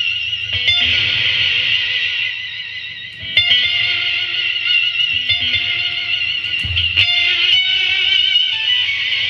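Distorted electric guitar played through an EarthQuaker Devices Astral Destiny octave reverb pedal: a wavering, high shimmering wash hangs over the notes, with new chords struck about three times. The player feels the pedal does not like the distortion in front of it.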